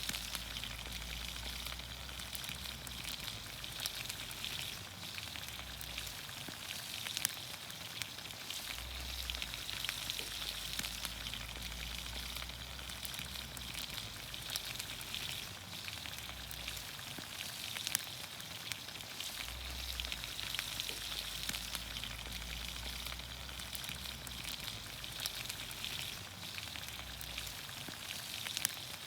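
Vegetables sizzling in olive oil over a campfire: a steady frying hiss with many small pops and crackles.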